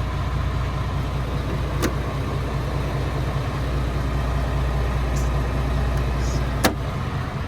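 7.8-litre Isuzu diesel in a 2007 GMC C6500 truck idling steadily. Two sharp clicks come through, one about two seconds in and one near the end.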